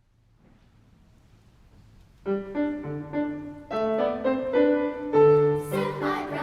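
Piano playing the opening introduction of a choral piece, entering about two seconds in after faint room noise with a run of separate notes and chords.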